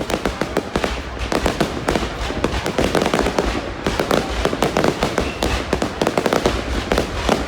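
Fireworks display: a dense, continuous barrage of bangs and crackles, many bursts each second, with low booms underneath.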